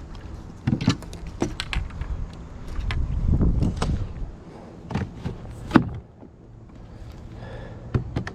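Kayak paddle and gear being moved around on the kayak: a series of irregular clunks, knocks and taps, over a low rumble.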